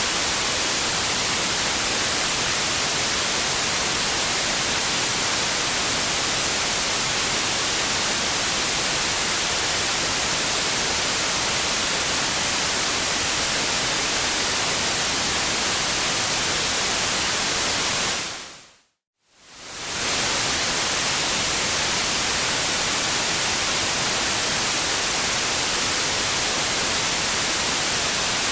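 Steady white noise, an even hiss strongest in the high end. About two-thirds of the way through it fades out to silence for a moment and fades back in.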